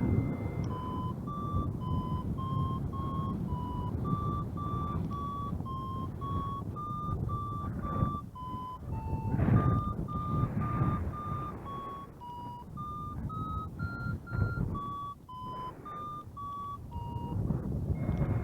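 Flight variometer beeping in a run of short tones, about two a second, the pitch wandering up and down and highest about two-thirds of the way through: the climb tone that signals rising air. Wind rushes over the microphone underneath.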